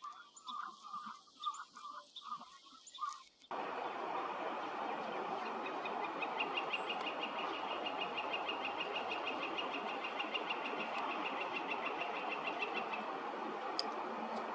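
Ducks calling in a run of short repeated notes. About three seconds in, the sound cuts to a steady rushing background noise, over which a fast, high, even trill runs for several seconds.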